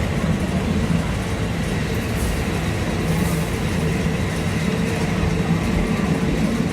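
Diesel train running, a steady engine note over an even rumble.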